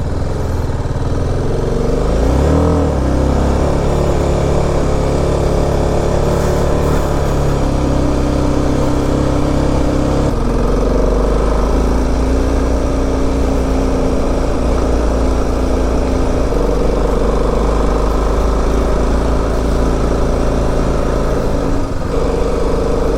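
BMW G 310 RR's single-cylinder engine running under load on a steep climb, with a steady note that shifts in pitch once about ten seconds in.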